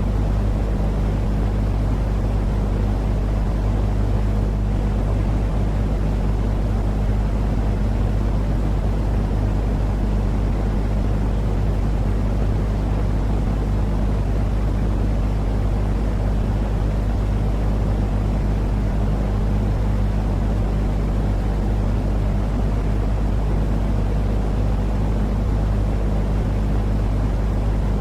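Steady, unbroken low rumbling noise, a calming sleep sound for babies: a deep droning hum under an even hiss, with no change in level.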